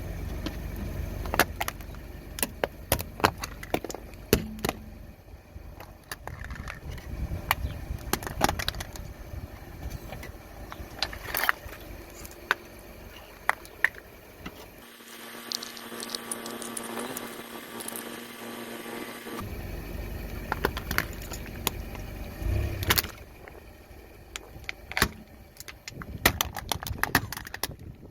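Car tyre rolling slowly over brittle objects and crushing them: many scattered sharp cracks and crunches over the car's low rumble. The rumble drops out for a few seconds midway while the crackling goes on.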